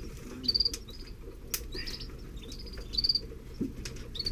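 Canary nestlings peeping in short, high trilled chirps several times over, typical begging calls while being fed, with a few sharp clicks from the nest.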